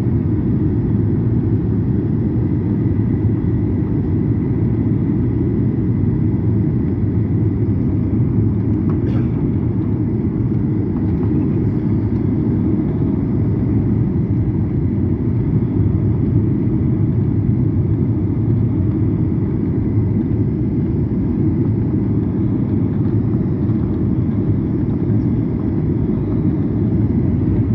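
Passenger airplane during landing, a steady, loud low rumble that holds level throughout.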